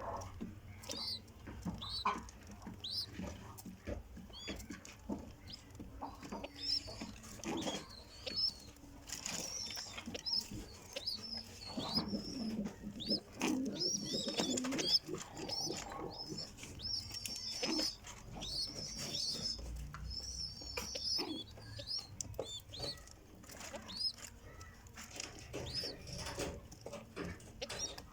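Pigeons cooing at the nest, the low coos heaviest around the middle, amid many short high chirps and peeps and scattered soft taps or rustles.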